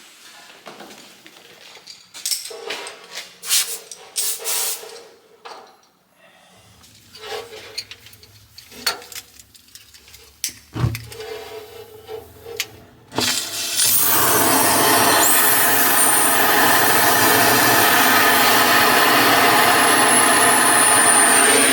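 Clatter and knocks of a gas cutting torch being set up, with short hisses. About fourteen seconds in, the torch is lit and burns with a loud, steady hiss.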